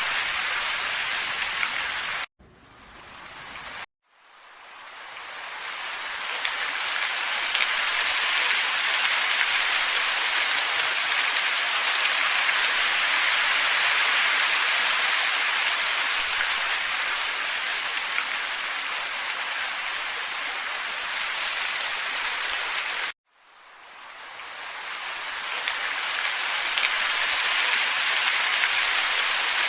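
Steady hissing wind ambience. It cuts out abruptly twice in the first four seconds and once about two-thirds of the way through, and each time swells back in over a few seconds, like the seams of a looped recording.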